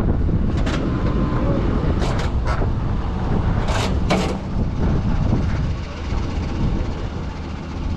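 Heavy diesel engine running steadily, with several sharp metallic clanks and squeals over the first half.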